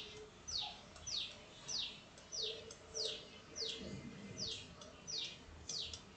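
A bird calling repeatedly: short, high notes, each sliding down in pitch, about three every two seconds.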